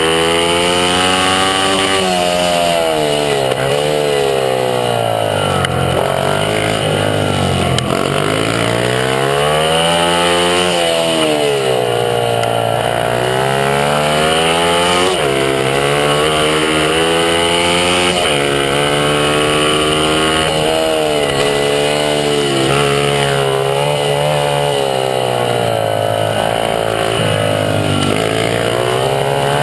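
Honda CRF50 pit bike's small single-cylinder four-stroke engine heard on board at race pace. It revs hard, its pitch climbing and then falling away sharply again and again, with deep dips about every four to six seconds.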